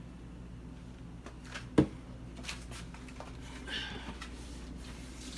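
Kitchen handling noise over a steady low hum: one sharp knock nearly two seconds in, the loudest sound, and a few fainter clicks and taps.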